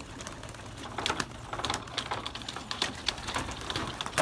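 Young racing pigeons scrabbling and landing at the loft: a quick, irregular run of clicks and taps, with one sharper knock near the end.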